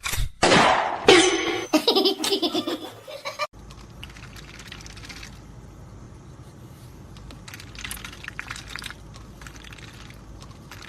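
Laughter in loud, pulsing bursts for about three and a half seconds, then a sudden cut to quiet, steady background noise.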